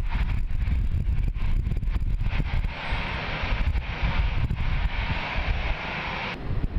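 Jet engine noise from a Boeing 787-9 taking off, mixed with heavy wind buffeting on the microphone. The higher hiss drops away suddenly near the end.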